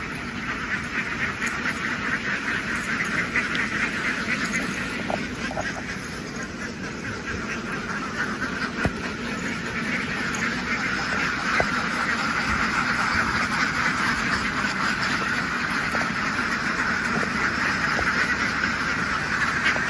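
A large flock of ducks quacking all at once, a dense unbroken chorus of overlapping calls that grows a little louder about halfway through.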